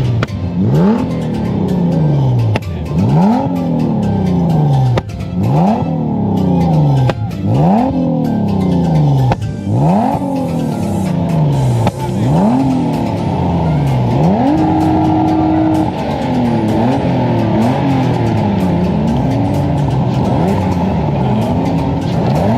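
A car engine revved hard again and again: each blip climbs quickly and falls away more slowly, about every two seconds. About fourteen seconds in it is held at a steady high rev for over a second, then wavers in short, quick revs.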